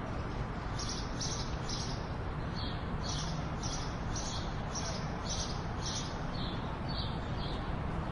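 A bird chirping in short high notes, about two a second, over a steady rushing background noise.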